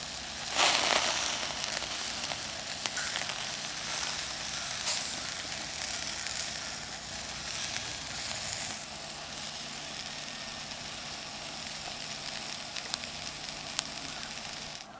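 Food sizzling over a campfire, with scattered crackling pops. A loud flare of sizzling comes about a second in.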